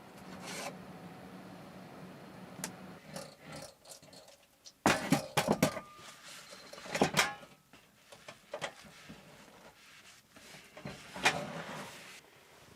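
Close-up handling sounds: rubbing and scraping with a quick cluster of sharp clicks and knocks about five seconds in, another knock about seven seconds in and one more near the end.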